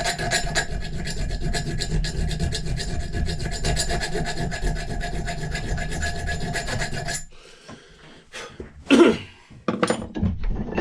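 A file rasping against the steel of an old axe head in a continuous run, with a faint ring from the metal; it stops about seven seconds in, followed by a few light knocks of the tool and head being handled.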